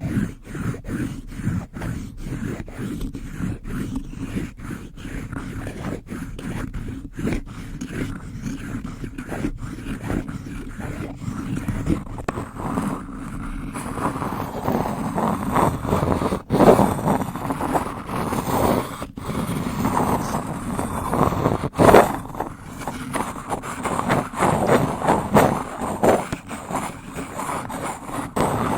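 Close-miked wooden spoon scraping and rubbing, with repeated sharp taps. From about halfway the scraping grows fuller, with a few louder knocks.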